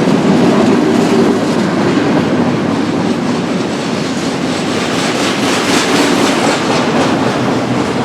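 BNSF intermodal freight train cars rolling past, wheels clicking over the rail joints in a steady clickety-clack, slowly easing in level.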